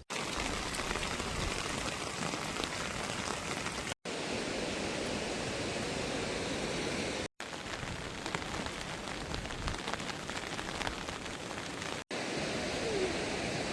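Steady rain falling, a dense even hiss. It cuts out for an instant three times.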